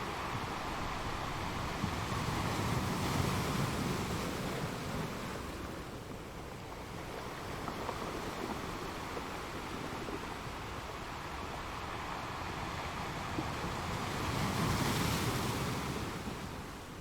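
Ocean waves breaking and washing in a continuous surf, swelling louder twice: about three seconds in and again near the end.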